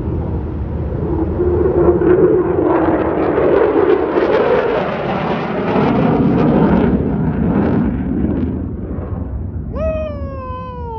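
Jet aircraft flying fast overhead: a loud roar that builds, peaks near the middle and fades away. Near the end a man's voice calls out, falling in pitch.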